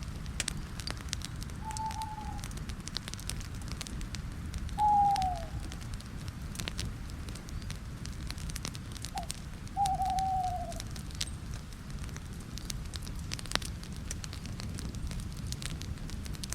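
Campfire crackling with scattered sharp pops over a low steady rumble. A bird calls a few times with short, slightly falling hoots; the calls about five and ten seconds in are the loudest sounds.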